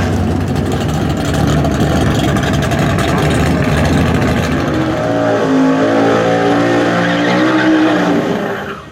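V8 muscle car engine running hard under load, then climbing steadily in pitch as the car accelerates, before the sound cuts off abruptly near the end.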